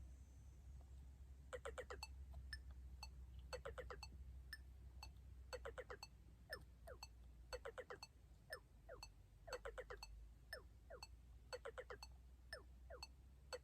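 Korg Volca FM synthesizer playing a quiet looping sequence. A two-second phrase repeats: a quick flurry of short beeping notes, then a few short notes that slide down in pitch, over a steady ticking beat.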